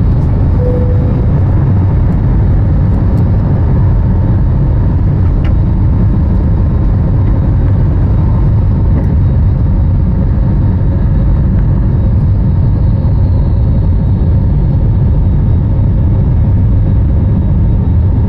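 Airbus A321neo's Pratt & Whitney geared turbofan engines running at high thrust during takeoff and climb-out, heard inside the cabin over the wing. A loud, steady rumble with a faint steady whine over it.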